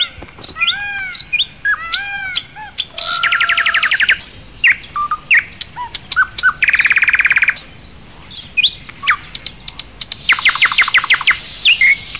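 Several birds calling: short arched whistled calls in the first few seconds, then rapid trills about three seconds in, around seven seconds and again after ten seconds, with scattered chirps between.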